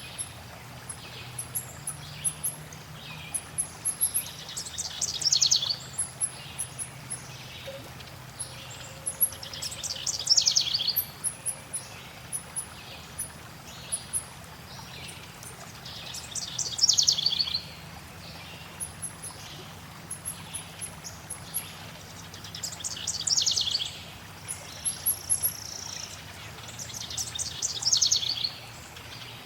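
Forest birdsong: one bird repeats a fast, trilled phrase of about a second and a half roughly every six seconds, while another gives frequent thin, very high chirps, over a faint, steady low background.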